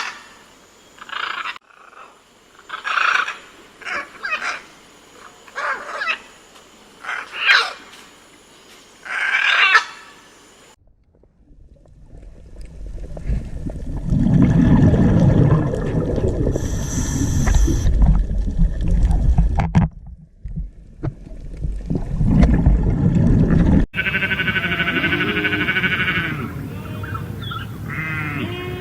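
A run of different animal calls: short high calls about once a second for the first ten seconds, then after a brief pause a loud, low rumbling call lasting about twelve seconds, then a sustained higher cry near the end.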